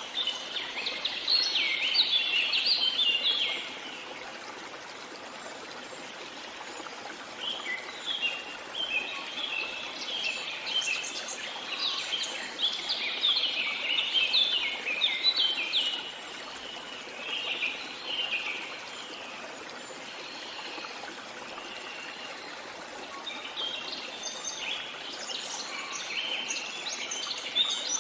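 Songbirds singing in bouts of rapid chirps and trills, over the steady rush of flowing water from a stream. The song is strongest in the first few seconds, through the middle and again near the end, with lulls between where only the water is heard.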